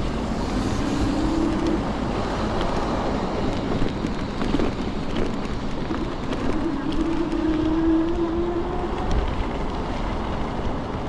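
Electric scooter riding along a street: steady road and wind noise, with a low hum that rises in pitch twice.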